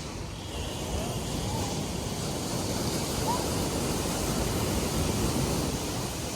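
Sea waves washing onto a sandy beach, a steady surf noise that swells a little about a second in, with wind buffeting the microphone. Faint distant voices carry over it.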